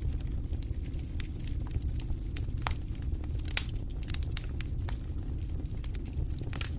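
Wood fire burning in a fireplace: a steady low rumble of the flames with irregular sharp crackles and pops, one louder pop about three and a half seconds in.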